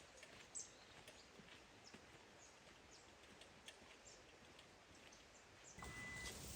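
Near silence with faint, scattered light ticks and clicks. Near the end the background gets louder and a short steady high beep sounds once.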